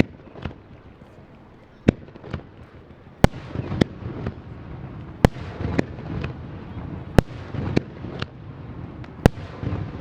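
Aerial firework shells bursting in a volley: sharp bangs roughly every half second to second and a half, each trailing off in an echo, over a low rumble that builds after about three seconds.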